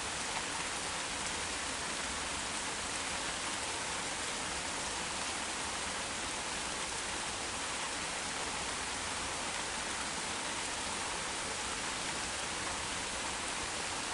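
Heavy rain shower falling steadily, an even hiss of rain with no let-up.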